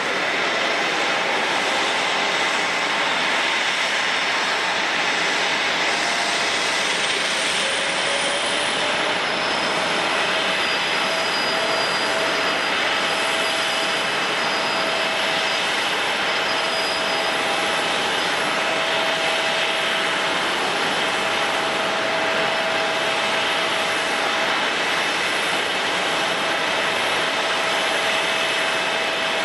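Jet airliner engines running steadily, with a turbine whine that rises in pitch between about seven and ten seconds in and then holds.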